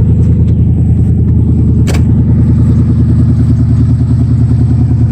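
1991 GMC K1500's V8 engine idling steadily with an even, fast pulse, freshly fitted with new spark plugs and still cold, so the idle is a bit high. A single sharp click about two seconds in.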